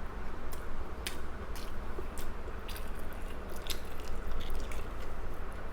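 A person chewing and biting food close to the microphone, with irregular short mouth clicks about once or twice a second over a low steady hum.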